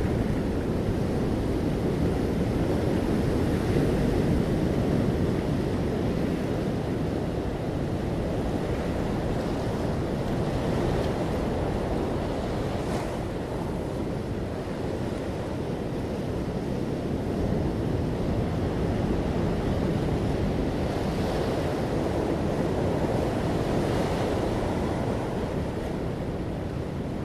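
Ocean waves breaking and washing on a shore: a continuous surf roar that swells and eases slowly, with brief brighter hisses of foam every few seconds.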